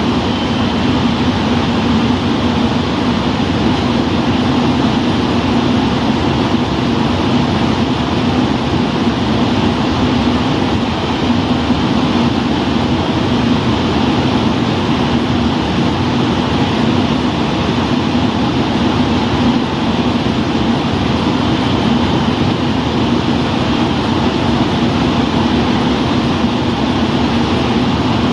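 KiHa 185 series diesel railcar standing at the platform with its engine idling: a loud, steady diesel hum that does not change.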